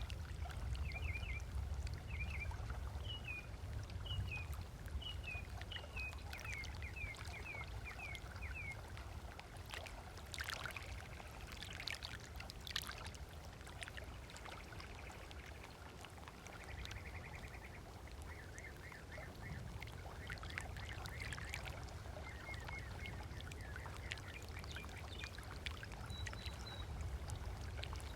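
Small waves lapping on a lake shore, with a few louder splashes about a third of the way in. Birds call over it: a quick run of short chirps in the first several seconds, a brief trill midway, then more chirps.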